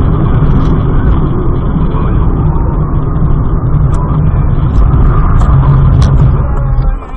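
Loud, steady, low rumble of a motor vehicle on the move, with a few faint clicks scattered through it; it cuts off about seven seconds in.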